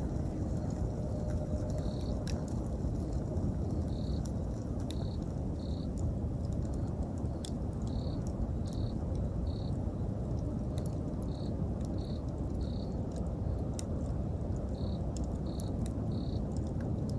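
Campfire burning with a steady low rumble and scattered sharp crackles and pops from the burning wood, while a cricket chirps in short, high, evenly pitched pulses about once or twice a second.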